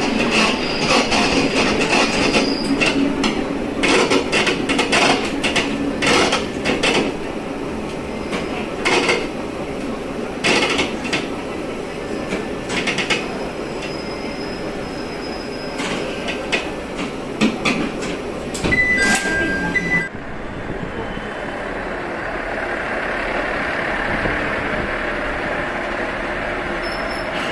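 Diesel railcar heard from inside the cab while running: wheels clack over rail joints above a steady running rumble, and two short high tones sound just before the sound cuts. After the cut, about two-thirds of the way through, there is a smoother steady rumble of a railcar standing at a station platform.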